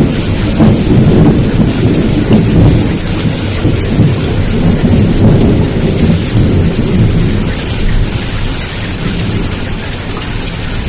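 Heavy downpour of rain hissing steadily, over a continuous low rolling rumble of thunder that eases slightly near the end.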